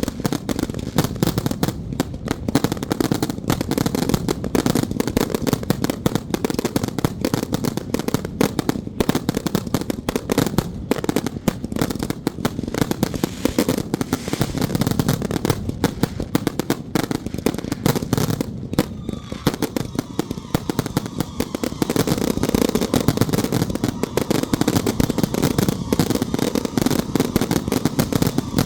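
Firecrackers going off in a dense, continuous rapid popping, like long strings of firecrackers burning through without a break.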